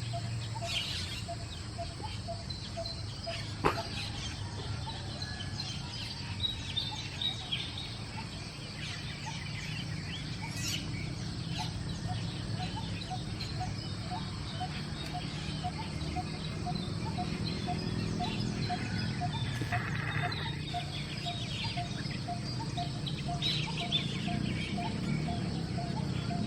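A flock of Asian glossy starlings chirping and calling in many short, sharp notes, over a steady low rumble and a faint regular pip about twice a second.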